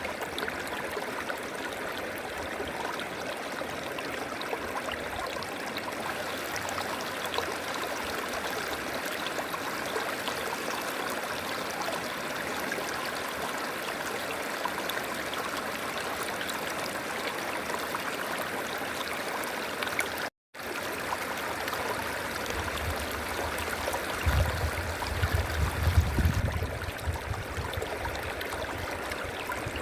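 River water flowing steadily with a continuous rushing sound. It cuts out for a split second about two-thirds of the way through, and a low, uneven rumble comes in near the end.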